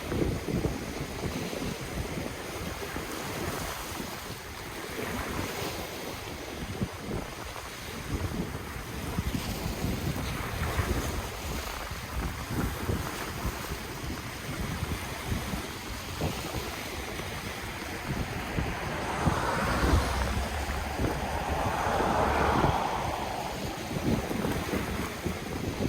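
Ocean waves washing in steadily, with wind rumbling on the microphone. A bigger wave swells and breaks louder about twenty seconds in, lasting a few seconds.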